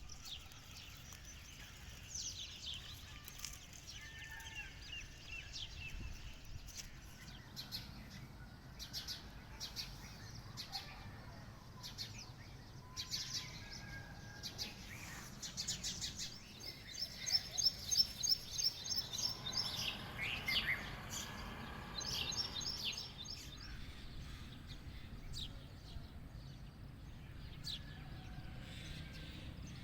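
Birds chirping and calling over a faint steady background hiss, with a quick run of repeated high chirps about midway that is the loudest part.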